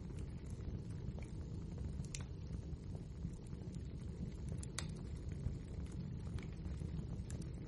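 Wood fire burning in a fireplace: a steady low rumble with scattered crackles and pops from the burning logs, the sharpest pop about five seconds in.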